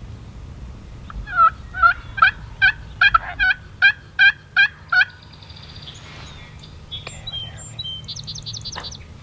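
A wild turkey calling: a run of about ten loud, evenly spaced notes lasting about four seconds, followed by small songbirds chirping.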